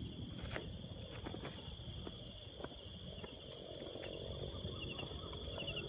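Insects, crickets among them, trilling steadily in several overlapping high-pitched tones, one of them pulsing, over a low rumble and a few faint clicks.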